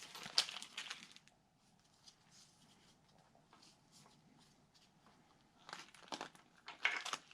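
A plastic parts bag crinkling as it is handled, for about the first second and again near the end, with a quiet gap between.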